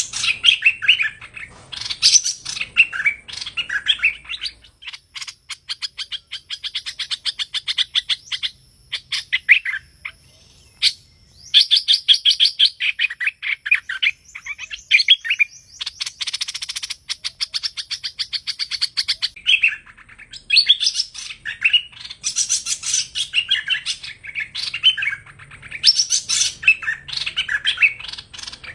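Song of a hoành hoạch, a Vietnamese songbird. Loud, varied whistled phrases alternate with long runs of rapid chattering notes.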